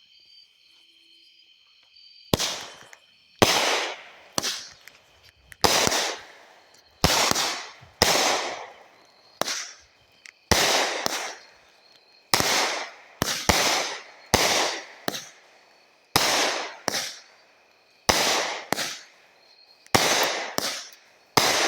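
A 200-gram, 16-shot consumer firework cake (World Class Fireworks' Wreckless) firing shot after shot, starting about two seconds in. It gives a rapid run of sharp bangs, roughly one or two a second, each trailing off quickly.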